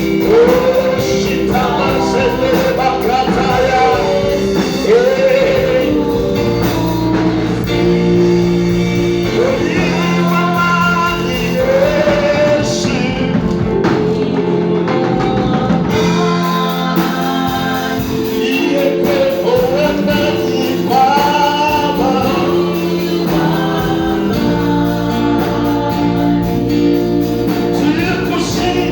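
Gospel worship song with singing over a band's steady chords.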